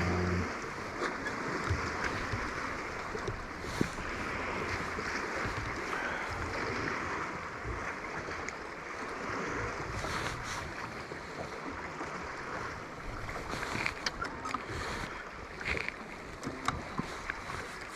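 Steady wind and water noise around a small fishing boat, with scattered light clicks and knocks from handling gear aboard, more of them near the end.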